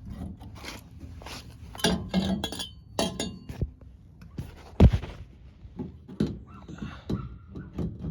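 Exhaust tips being handled against the exhaust exit plate: a string of irregular light clinks and knocks, with one heavier thump about five seconds in.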